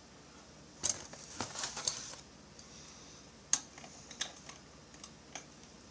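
Sharp, irregular metal clicks and taps from pliers being adjusted and worked on small chainsaw parts while fitting an E-clip. There is a quick cluster of clicks about a second and a half in and a single sharp click past the middle.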